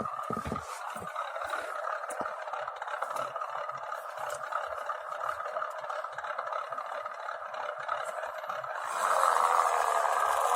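A Dasmicro sound module playing a simulated engine sound through the small speaker of a 1:16 scale RC UAZ, thin and lacking any low end. It runs steadily, then gets louder, like the throttle being opened, about nine seconds in. The uploader says the sound doesn't suit a UAZ.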